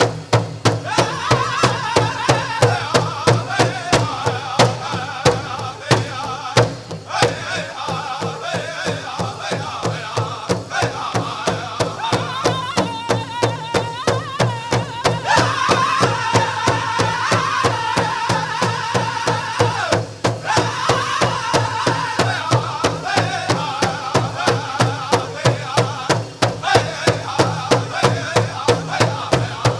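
Powwow drum group playing a chicken dance song: a large drum struck in a steady, even beat while a group of men sing over it.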